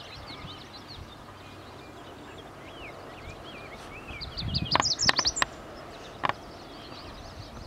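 Several songbirds chirping and singing over a steady low background. About halfway through, a cluster of louder, sharp high calls comes with a brief low rumble, and a second later one more sharp call.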